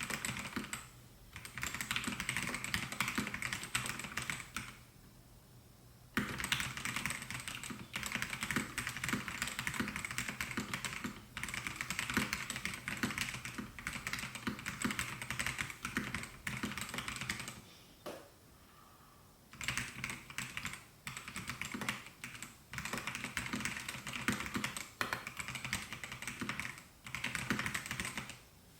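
Typing on a Melgeek Mojo68 mechanical keyboard with white Pro switches: quick runs of key clacks, with two short pauses, one about five seconds in and one about eighteen seconds in.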